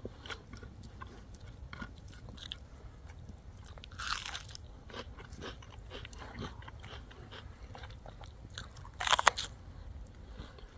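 A person biting and chewing crunchy food close to the microphone, with small crackling clicks throughout and two louder crunches, about four and nine seconds in.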